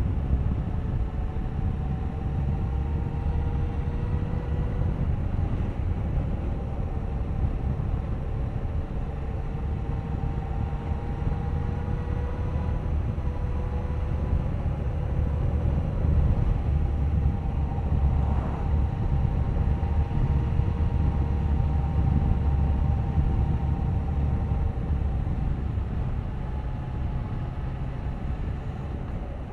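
Suzuki GSX1250FA motorcycle's inline-four engine running at a fairly steady cruising speed, its engine note drifting slowly up and down under a low rumble, and a little louder for a few seconds past the middle.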